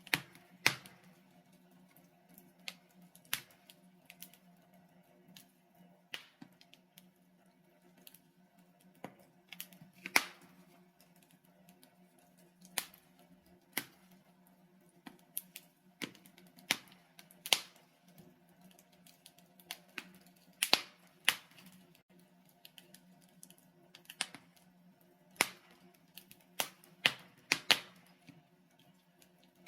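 Wood logs burning in a fireplace, crackling with irregular sharp pops, some much louder than others, over a faint steady low hum.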